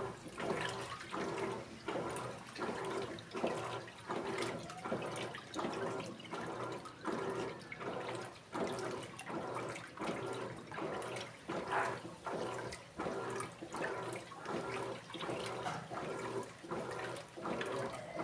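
Electrolux Essential Care 14 kg top-loading washing machine agitating a load, water and clothes sloshing back and forth with each stroke, about three surges every two seconds.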